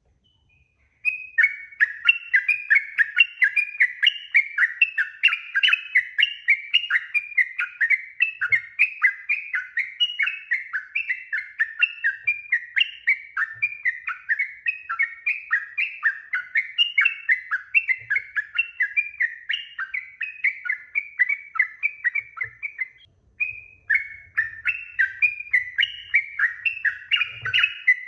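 Yellow-vented bulbul (trucuk) singing a long, unbroken run of quick, bubbling phrases, about three notes a second. The song starts about a second in and pauses briefly near the end. It is a 'pancingan' lure song, played to get caged bulbuls to answer.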